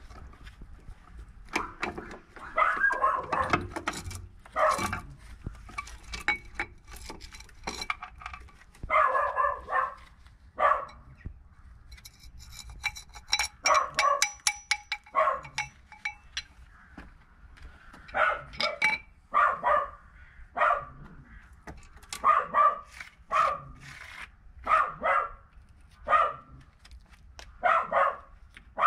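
A dog barking repeatedly in short, irregular bursts. About halfway through there is a run of sharp, ringing metallic clinks.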